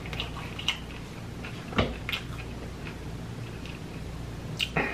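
A person chewing a mouthful of taco close to the microphone: a few sharp crunches and mouth clicks over a low steady hum.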